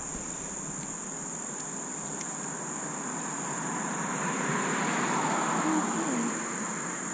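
Crickets or other insects chirring in a steady, unbroken high-pitched chorus, with a soft rushing noise that swells and fades about two-thirds of the way in.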